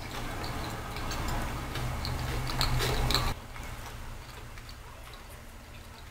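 Close-up eating sounds of pizza being chewed, with small wet mouth clicks. A steady low bass line runs underneath. Everything drops suddenly in loudness a little past the middle.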